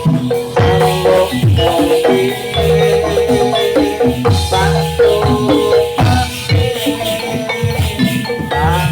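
Javanese gamelan accompaniment for a Jathilan horse dance: bronze mallet metallophones ringing steady notes over repeated drum strokes.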